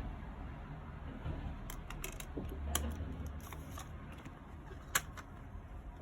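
CD packaging being handled: a run of small plastic clicks and rustles, with one sharper click near the end.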